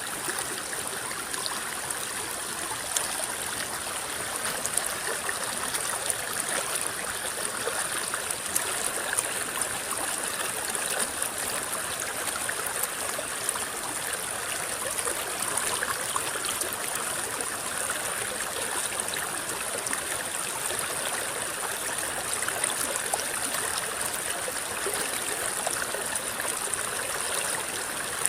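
River water rippling and babbling steadily over rocks, an even rushing hiss dotted with small splashes and drips.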